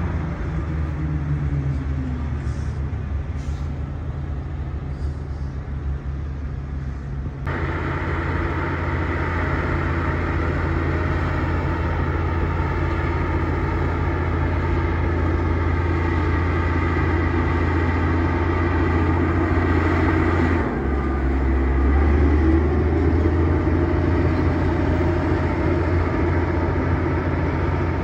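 Bulldozer's diesel engine running steadily under load. The note turns abruptly fuller and louder about seven seconds in, and drops lower about two-thirds of the way through.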